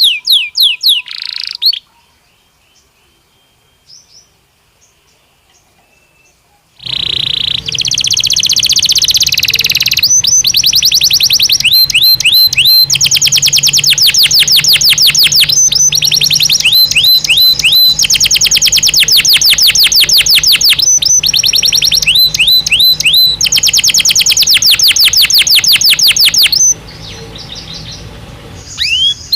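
Belgian canary singing: fast trills of rapidly repeated sweeping notes. The song stops about two seconds in, resumes loudly about seven seconds in with a long unbroken run of rolling trills, and breaks off near the end.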